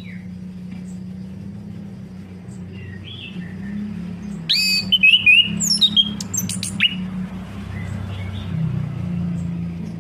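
Orange-headed thrush singing: scattered soft chirps, then a loud burst of varied whistles and sharp notes about halfway through, over a steady low hum.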